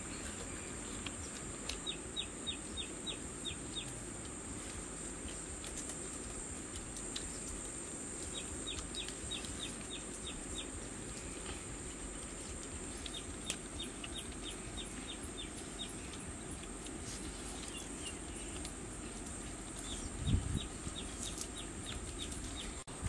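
Steady high insect drone with a bird calling in four runs of short, quick descending notes, about five a second, each run lasting about two seconds; a brief low thump near the end.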